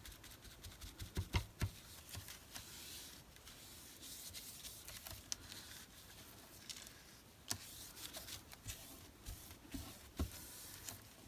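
Faint rubbing and rustling of paper and card being handled and dabbed, with scattered light taps and clicks on the work surface.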